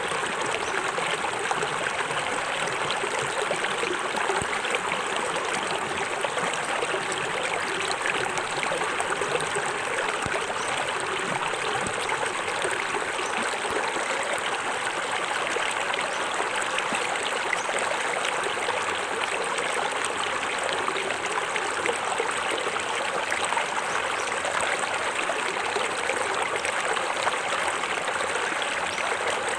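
Small forest waterfall: water splashing and running over rocks in an even, unbroken rush.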